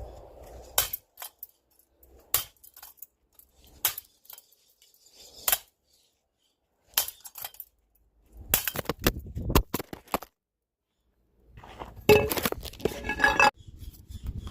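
A bat striking a ceiling fan again and again. There are sharp clinking hits about every second and a half, then longer bouts of clattering and rattling with some ringing as fan parts break loose.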